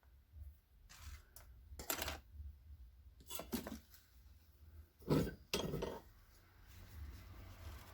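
A series of clinks and knocks from small metal objects being handled and set down on a hard surface, about half a dozen in all, the loudest about five seconds in.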